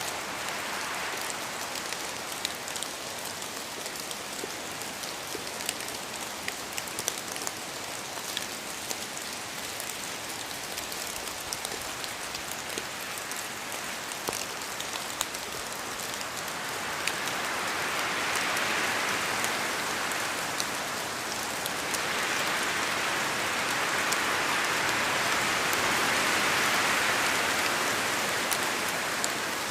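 Rain falling steadily, with many individual drops ticking. About halfway through it grows heavier and louder, staying heavier until near the end.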